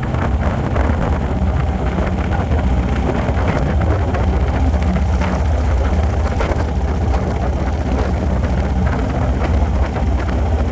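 Harley-Davidson motorcycle running steadily at road speed, its low engine note mixed with wind rushing over the microphone.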